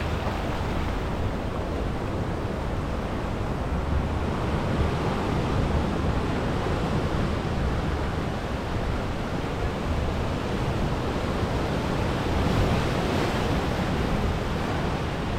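Sea surf washing steadily onto the shore, mixed with wind rumbling on the microphone.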